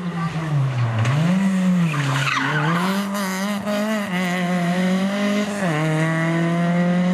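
Honda Civic VTi rally car's engine at high revs, its pitch dipping and climbing again through braking, gear changes and acceleration. A brief scrub of tyres about two seconds in, and a sharp drop in pitch at an upshift near the end.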